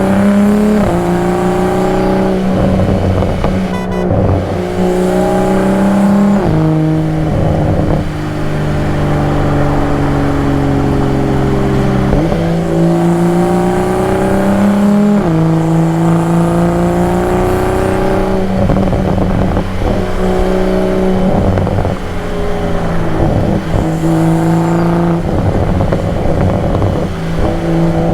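2022 Toyota Supra's engine and exhaust under repeated acceleration: the pitch climbs, drops suddenly at each upshift and climbs again, several pulls in a row, with one stretch in the middle where the revs sink slowly as the car eases off.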